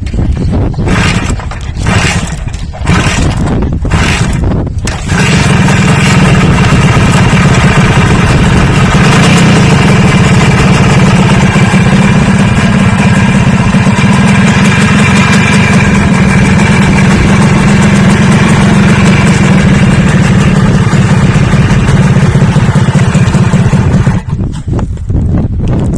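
A motor engine gives a few short bursts over the first five seconds, then runs loudly and steadily for most of the rest, stopping a couple of seconds before the end.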